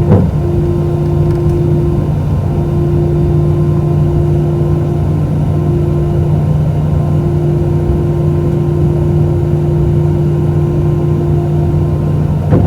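Airbus A320-212's CFM56 turbofan engines running at high power, heard from inside the passenger cabin as a steady drone with a steady hum in it.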